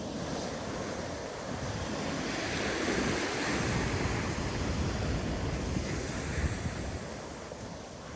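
Ocean waves breaking and washing up the beach, the surf swelling to its loudest in the middle and easing toward the end, with wind on the microphone.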